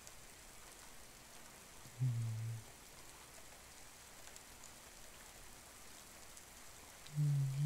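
Steady, even rain. A man's deep voice makes a short low murmur about two seconds in and another near the end, louder than the rain.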